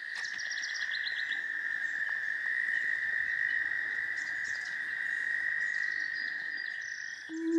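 Outdoor chorus of calling animals: a steady high-pitched drone, with songbirds trilling and chirping over it, most busily in the first second and a half.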